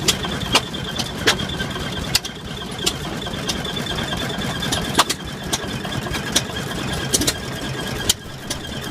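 A large antique engine-driven contraption with many moving parts running: a steady low mechanical drone with a thin high whine over it and sharp clicks about once a second.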